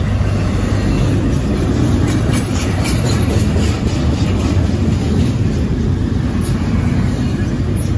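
Double-stack intermodal freight train of well cars rolling past close by: a steady, loud rumble of steel wheels on rail, with a run of light regular clicks from about two to four seconds in.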